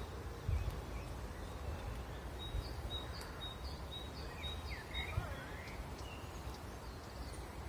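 Wild birds singing, one repeating a short high note about three times a second for a couple of seconds, with a few sweeping calls from another bird, over a low steady rumble.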